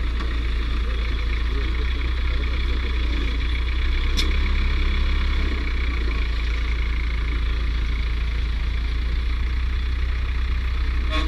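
Heavy vehicle engine idling steadily, a constant low rumble, with a sharp click about four seconds in.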